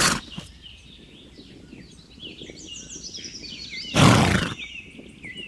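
A horse gives one short, loud, breathy blow about four seconds in, over small birds chirping steadily.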